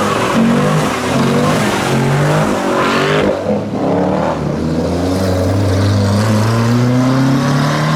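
Car engines revving and accelerating away, their pitch climbing and dropping several times in the first few seconds. From about five seconds in, one deep engine note rises slowly as a car pulls away.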